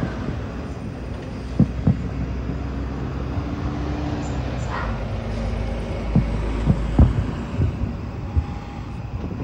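Distant fireworks shells bursting over water: a string of sharp booms, two early and a cluster in the second half, over a steady low rumble.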